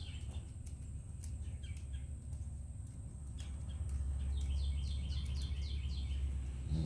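A bird chirping in runs of quick falling notes, with a longer run about four and a half seconds in, over a low rumble that gets louder about halfway through. A faint steady high whine runs underneath.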